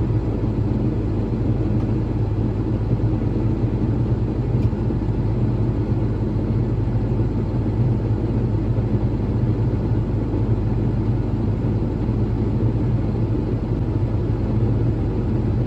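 Farm tractor's diesel engine idling steadily, an even low hum that does not change.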